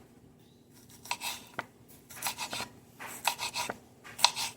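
Kitchen knife cutting and scraping on a cutting board, in short strokes that come in small clusters about once a second, starting about a second in.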